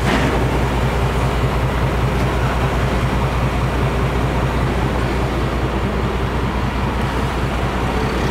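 A motor-vehicle engine idling steadily, a low, even hum that does not change.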